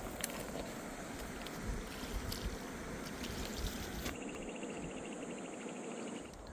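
Steady rush of a fast mountain river flowing over rocks, with a few faint clicks in the first few seconds.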